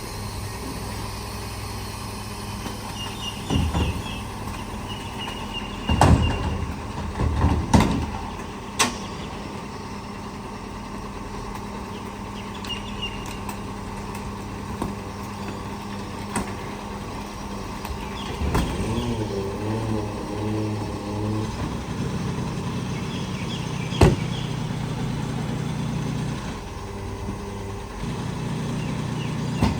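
Garbage truck engine running steadily, with several sharp bangs and clatters over it. The engine speed steps up a little past halfway and again near the end.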